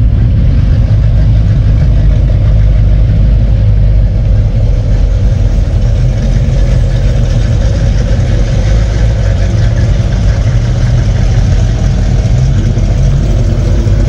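Car engine running steadily with a deep, continuous low rumble.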